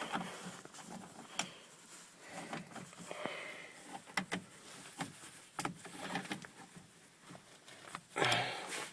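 Handling noise of keys and hand tools: scattered light clicks and knocks, with a short breathy rush near the end.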